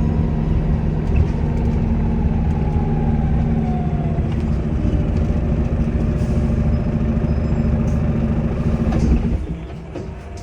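Volvo B5LH hybrid bus's diesel engine running steadily, with a faint turbo whistle gliding down in pitch a couple of seconds in. The engine sound drops away sharply about nine seconds in.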